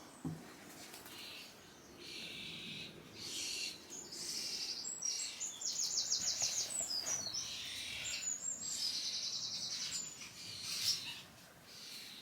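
Birds chirping, with three bursts of fast high trills in the middle stretch.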